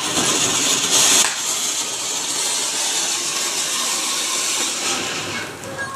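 A firework burning with a steady spraying hiss, loudest about a second in and easing off near the end.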